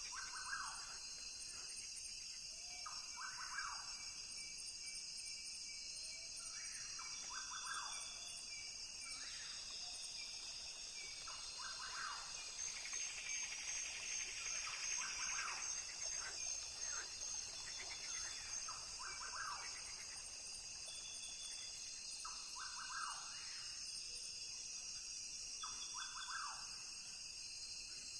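Rainforest ambience: a steady high insect chorus, with short animal calls repeating every two to three seconds. The chorus swells louder about halfway through.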